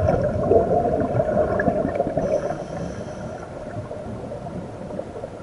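Muffled underwater gurgling and bubbling from a scuba diver's breathing, loudest over the first couple of seconds and then easing off.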